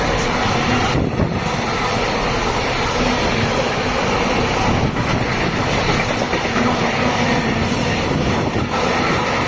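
Train passing on the line: a steady, loud rolling noise of wheels on rails that keeps up without a break.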